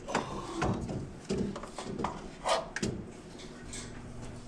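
Irregular clanks, knocks and scrapes of metal exhaust parts and tools being handled as the O2 sensor is worked loose and backed out past a spring on a side-by-side's exhaust. A faint steady hum comes in near the end.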